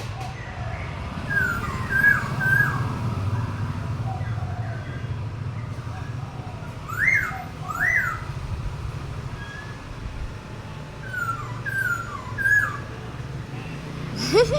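A bird singing in short whistled phrases: a cluster of falling notes about two seconds in, two rising-and-falling notes around seven and eight seconds, and another cluster of falling notes around eleven to twelve seconds, over a steady low hum.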